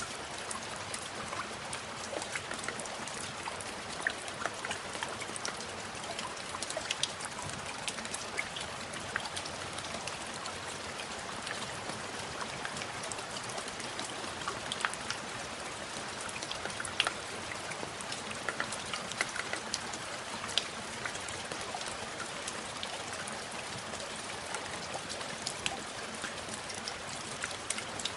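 Steady rain with many distinct drops pattering on a hard surface.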